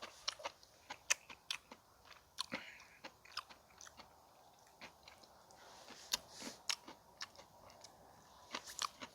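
A person chewing a mouthful of food close to the microphone: faint, irregular wet clicks and small crunches of the mouth, a few per second, with a quick cluster near the end.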